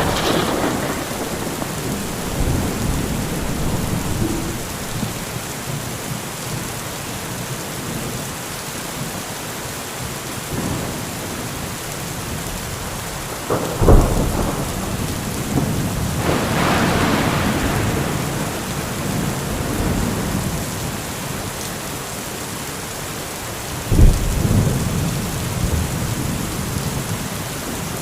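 Heavy steady rain with thunder: a sharp, loud thunderclap about halfway through and another near the end, each trailing off into low rumbling, with a slower rolling rumble swelling and fading between them.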